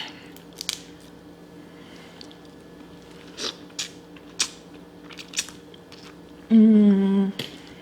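Cracking and biting into boiled blue crab shells and chewing, a scatter of sharp crunches and clicks. Near the end comes a short hummed voice sound of under a second, the loudest moment.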